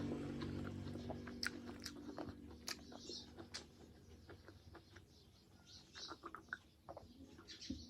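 A person chewing food close to the microphone, with small wet mouth clicks scattered irregularly through it.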